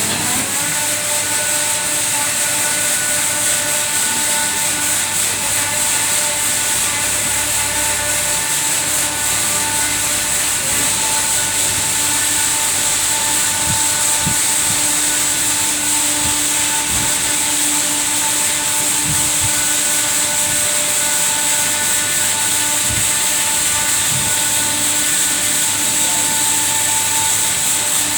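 Christ Genius rollover car wash running: a steady, loud hiss of spraying water over a constant mechanical whine from its motors and pumps, with a few faint knocks partway through.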